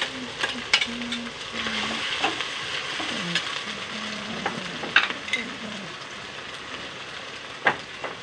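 Chopped tomatoes sizzling in hot mustard oil with onion and garlic-ginger paste in a metal kadhai, stirred with a metal spatula that scrapes and taps the pan in a few sharp clicks, the loudest about five seconds in and near the end.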